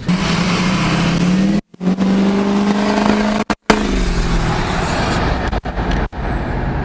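Motor vehicle engine running steadily under a wash of road and wind noise, broken by a few abrupt cuts.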